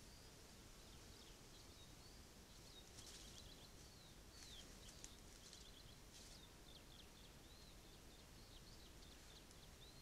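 Faint birdsong: short chirps that curve up and down, repeated every second or so, with a few higher, buzzier notes about three and six seconds in. Under it runs the steady low hiss of a camera trap's microphone.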